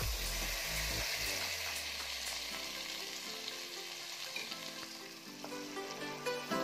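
Cooked mashed lentils poured into hot ghee with fried dried red chillies and cumin, sizzling, then stirred with a wooden spatula near the end.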